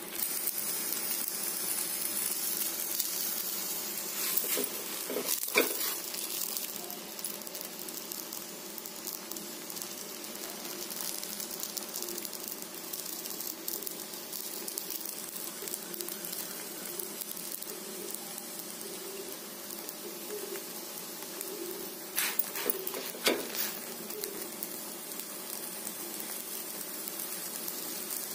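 Parotta frying in a little oil on a flat iron dosa tawa: a steady sizzle, with a few sharp clicks about five seconds in and again around twenty-two seconds in.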